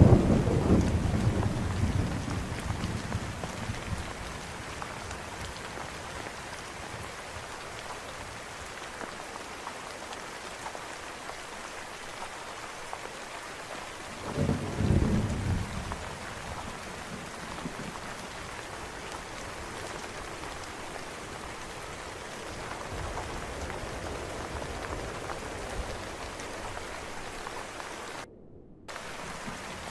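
Steady rain with thunder. A thunder rumble fades out over the first few seconds, and a second, shorter clap of thunder comes about halfway through. Near the end the rain briefly drops out for about half a second.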